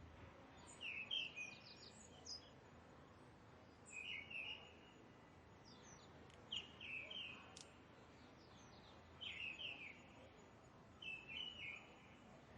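A bird singing the same short, quick phrase of several high notes five times, roughly every two to three seconds, over a faint steady background hiss.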